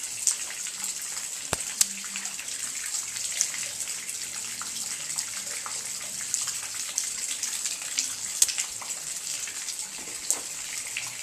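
Steady rain falling on wet pavement and puddles: an even hiss with scattered sharp ticks of drops landing close by.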